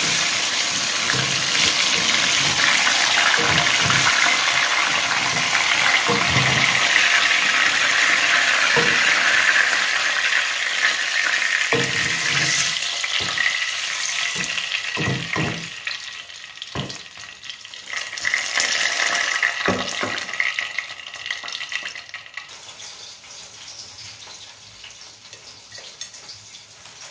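Batter-coated banana fritters deep-frying in hot oil in a wok: a loud, steady sizzle, with scattered knocks of a metal strainer and spatula against the wok as the cooked fritters are lifted out. The sizzle dies down over the last several seconds.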